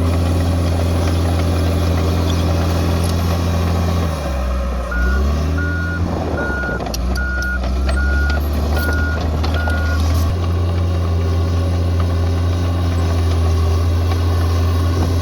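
Bulldozer diesel engine running steadily. About four seconds in, its pitch dips and climbs back, and a reversing alarm sounds about eight short beeps, roughly two every three seconds, while the machine backs up. The engine then settles back to a steady run.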